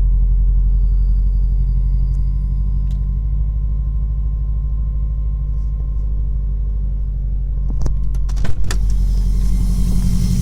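The turbocharged 2.0-litre flat-four of a 2003 Subaru WRX STi idling with a steady low pulse, a faint steady high tone over it for most of the time. A few sharp clicks about eight seconds in, after which a hiss comes back.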